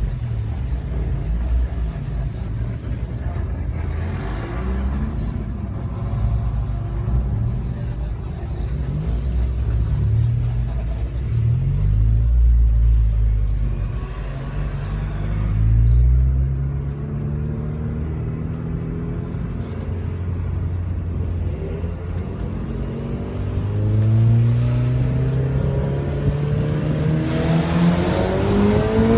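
Mazda MX-5 Miata (NC) 2.0-litre four-cylinder engine at racing speed on track. In the first half the revs change often with short drops and rises, as in braking and downshifting. Later come long pulls with the pitch climbing steadily under acceleration.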